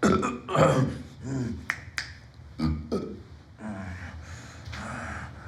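Short wordless vocal sounds from a person, broken by a couple of sharp clicks, then a soft steady hiss over the last two seconds.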